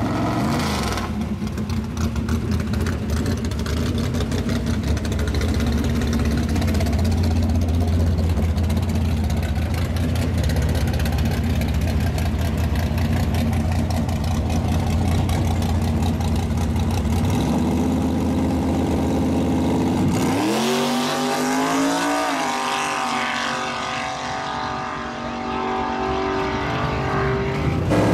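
Chevrolet Nova drag car's engine idling loudly with a rough, pulsing beat. About twenty seconds in it revs up sharply and launches, its pitch climbing and then holding as the car pulls away. Another car's engine comes in loudly right at the end.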